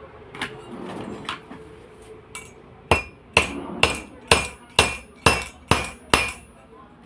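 Hammer striking metal on an exhaust fan motor while its shaft bush is being changed: a few light taps, then eight sharp blows about two a second, each ringing briefly.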